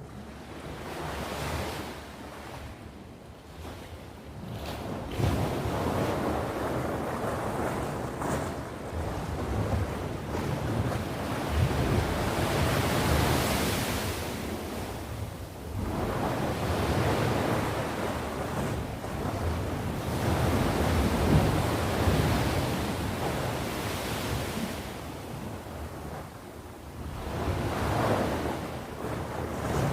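Sea waves breaking and washing on the shore, the surf swelling and ebbing every few seconds, with wind buffeting the microphone.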